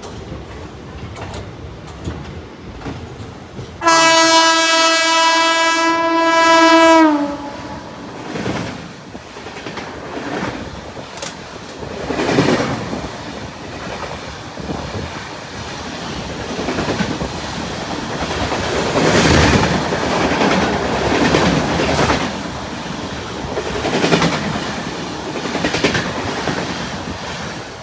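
Indian express passenger train running, with rail-joint clatter and rumble that swell and fade several times. About four seconds in, a locomotive horn sounds one long blast of about three seconds that drops in pitch as it cuts off.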